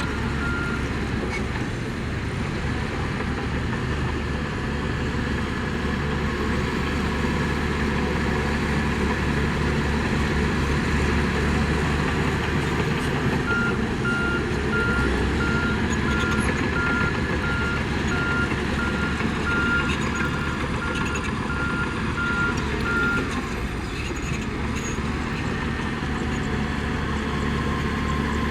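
Heavy diesel earthmoving machinery (bulldozer and dump truck) running steadily. A reversing alarm beeps in even pulses, briefly at the start and again for about ten seconds from the middle, about one and a half beeps a second, as a machine backs up.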